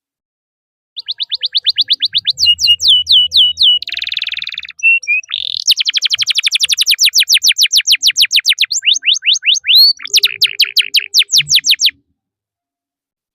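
Domestic canary singing a long song: runs of rapid, repeated down-sweeping notes, a brief buzzy rattle, then long fast trills (rolls). It starts about a second in and stops about a second before the end.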